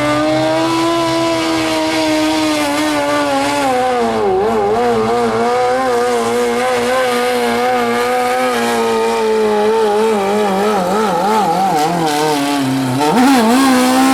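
Modified pulling lawn tractor's motorcycle engine running at high revs under heavy load while pulling the sled. The engine note slowly sags and wavers unevenly as the load builds, then climbs sharply near the end.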